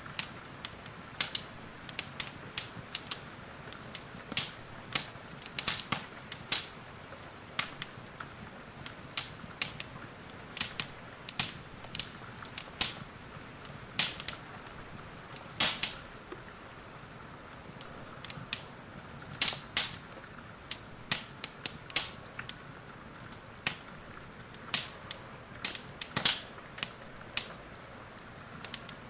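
Wood fire crackling, with irregular sharp pops and snaps, a few a second, over a steady soft hiss of rain.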